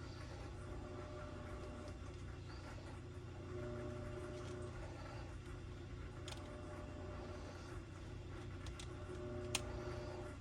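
Steady low hum of workshop room tone with a few faint clicks and one sharper click near the end.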